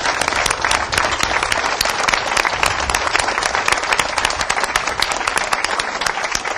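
Crowd applauding, a dense steady patter of many hands clapping.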